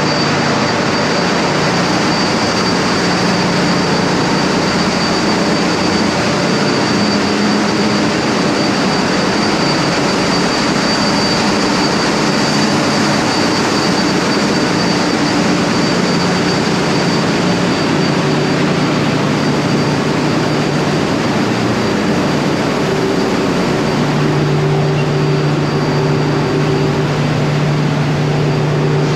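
Ship's engine room machinery running: a loud, steady din with a constant low hum and a faint high whine. A low hum grows stronger about 23 seconds in.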